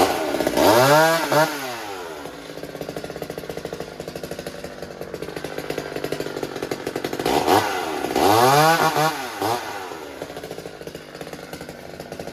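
McCulloch Mini Mac 35, a vintage 33 cc two-stroke chainsaw, idling with a pulsing, uneven beat and revved up and straight back down twice, about half a second in and about seven seconds in.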